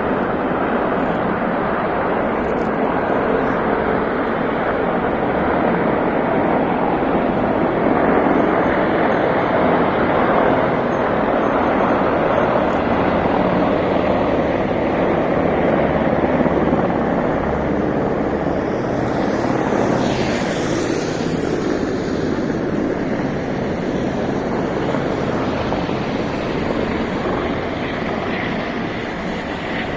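Military aircraft flying over low: a steady engine rumble, with a brief higher rushing sound about twenty seconds in.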